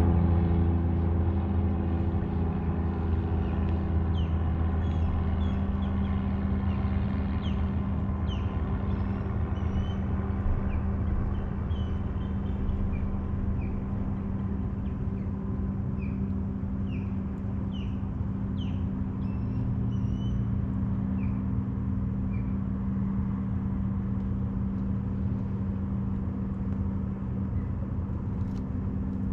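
A boat's motor running steadily, a low hum with several steady pitches, while small birds give many short, quick chirps over it through the first two-thirds.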